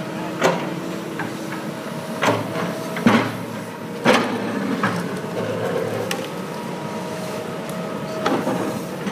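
A machine or truck engine running steadily during tree-removal work, with about five sharp knocks and thuds over it, spread irregularly through these few seconds.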